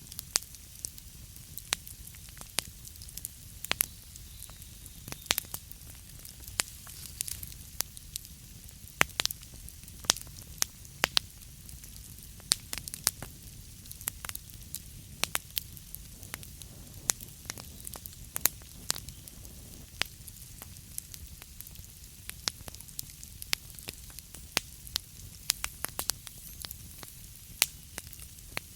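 Burning wood fire crackling: irregular sharp pops and snaps, several a second at times, over a steady low rumble of the flames.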